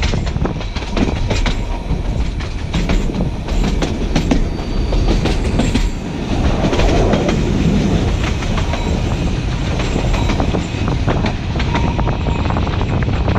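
A 760 mm narrow-gauge train climbing a grade, heard from aboard the coach. The wheels rumble steadily on the rails, with irregular clicks and clacks over the track throughout.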